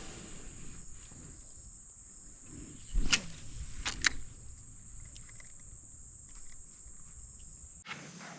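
Outdoor marsh ambience: a steady, high-pitched insect drone, with two short, sharp sounds about three and four seconds in. The drone cuts off suddenly near the end.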